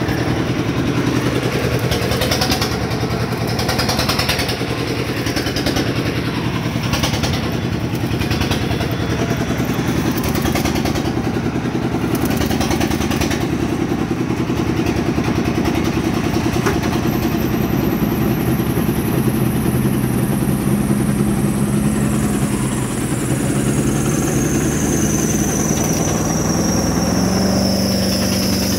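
An engine running steadily, with a high whine that slowly falls in pitch through the second half.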